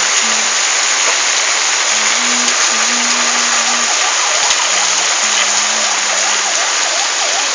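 Heavy rain falling steadily, a loud even hiss. Underneath it a faint low tone moves between a few held notes.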